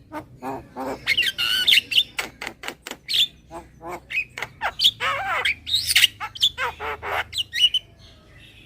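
Javan myna calling in a fast jumble of harsh squawks, sharp clicks and whistled notes that glide up and down, falling quiet near the end.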